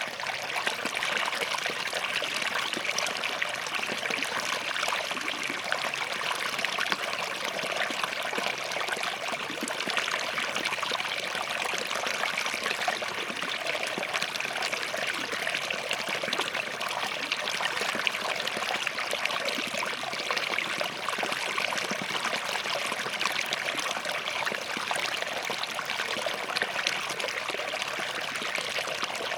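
Small forest stream running over and between rocks, a steady babble with fine trickling and splashing.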